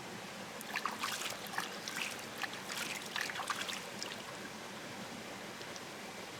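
Shallow river water running with a steady trickle. From about a second in, a quick run of small splashes and clicks goes on for about three seconds.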